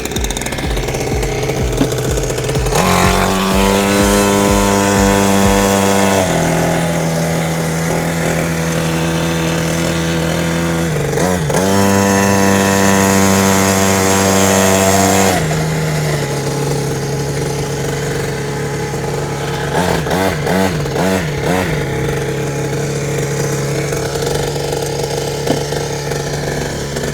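49cc two-stroke mini dirt bike engine running and being revved. Its pitch goes up and holds for a few seconds twice, then it gets several quick throttle blips about two-thirds of the way through before settling back to a steady lower note.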